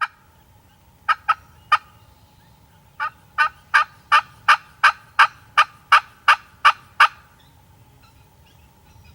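Turkey yelping: three quick notes a second in, then an evenly spaced run of about a dozen yelps, a bit under three a second.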